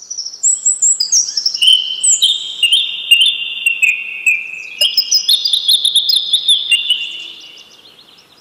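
Several songbirds singing at once: rapid overlapping chirps and trills in series of stepping notes, fading out near the end.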